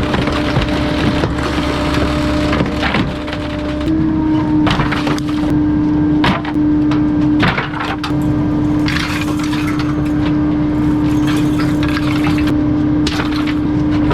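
Bulky-waste truck's compactor crushing a load, with repeated sharp cracks of things breaking over a steady, non-stop hydraulic hum.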